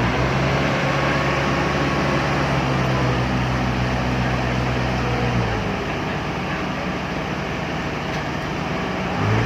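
A truck's engine running with a steady hum. About five and a half seconds in it drops back to a lower, rougher idle, and it picks up again near the end.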